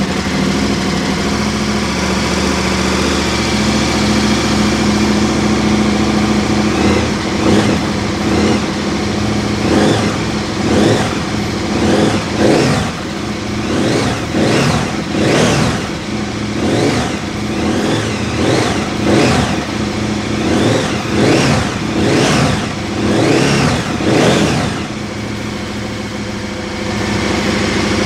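KTM 1290 Super Adventure S's V-twin engine idling just after start-up, then revved in a long series of short throttle blips, about one a second, before settling back to idle near the end.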